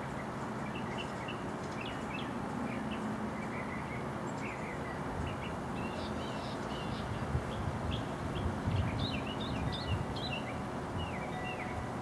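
Small birds chirping in short, quick notes, sparse at first and more frequent in the second half, over a steady background of outdoor noise and low rumble.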